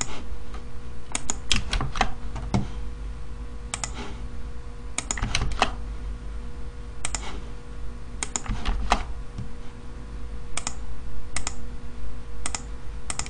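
Computer keyboard keys tapped in small irregular clusters, with pauses between, over a faint steady hum.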